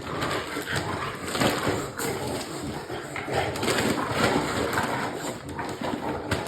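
Dogs moving about, with scuffling noise and a few sharp knocks.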